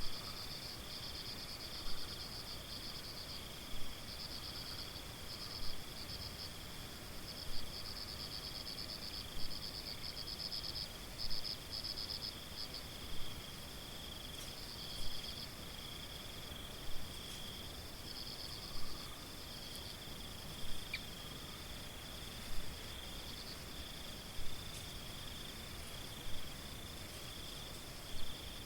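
Crickets chirping in a steady high-pitched trill, with a second, lower chirping layer that comes and goes. A louder pulse repeats about every two seconds.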